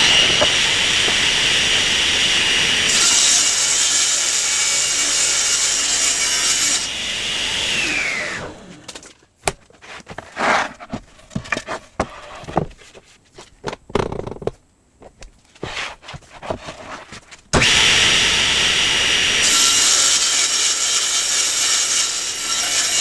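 Table saw ripping along the edge of a wooden board, twice. Each time the saw starts, runs through a cut that brightens the sound, and then spins down with a falling whine after it is switched off. Between the two cuts there are knocks and clatter as the board is handled.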